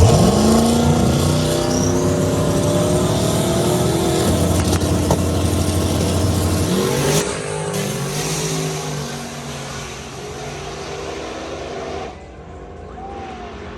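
Drag car engine at full throttle pulling away down the strip, its pitch climbing steadily, with a gear change about seven seconds in, then growing fainter as it gets farther off.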